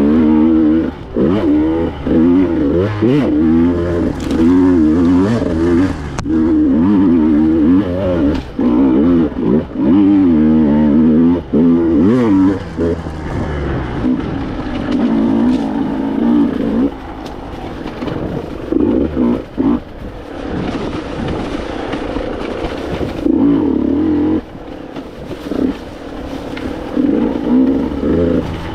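Two-stroke enduro motorcycle engine revving up and down over and over, its pitch rising and falling quickly. It is loud for the first twelve seconds or so, then quieter and more on-and-off.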